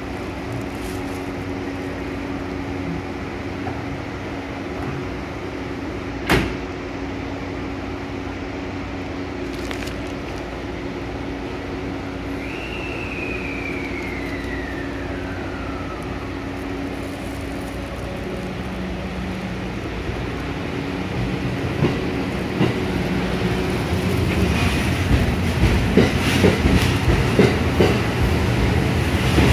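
JR West 683 and 681 series limited express electric train standing at the platform with a steady hum, a sharp click about six seconds in and a single falling whistle-like tone near the middle. Toward the end the train pulls away: the rumble grows and the wheels clack over the rail joints, louder and faster.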